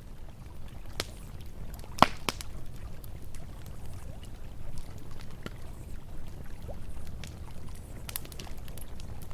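Campfire crackling with scattered sharp pops, the loudest about two seconds in, over the steady low rush of river water.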